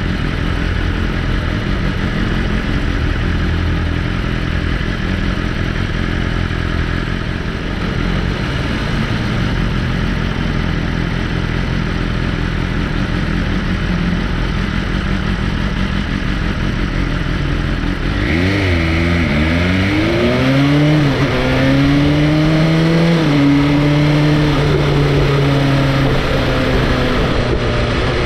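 Motorcycle engine running under way with steady noise. About two-thirds of the way through, the engine note becomes clearer and its pitch dips and rises several times as the revs change, then holds higher and climbs slowly.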